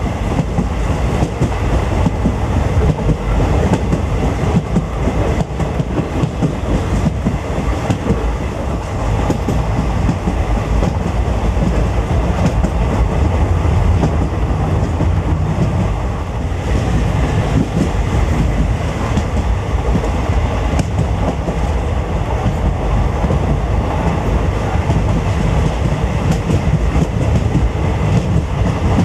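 Passenger train running at speed, heard from aboard: a steady low rumble with wheels clattering over the rail joints.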